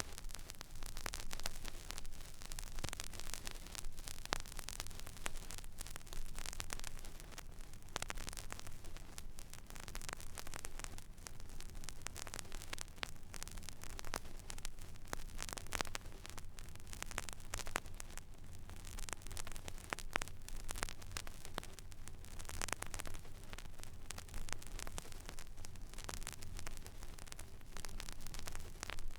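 Stylus tracking the empty groove of a vinyl record: steady surface hiss dotted with frequent small crackles and clicks, over a low hum.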